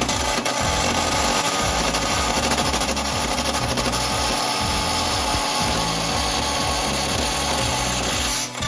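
A power tool cutting away a protruding part, running steadily and stopping shortly before the end. Background music with a bass line plays underneath.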